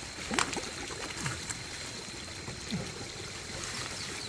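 Water trickling steadily, with a few light clicks and knocks.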